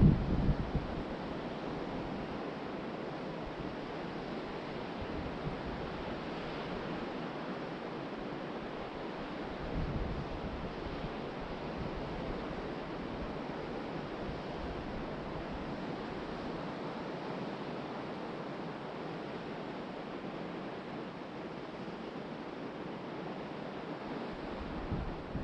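Ocean surf washing steadily onto the beach, mixed with wind. Wind buffets the microphone in short low rumbles at the start, about ten seconds in and near the end.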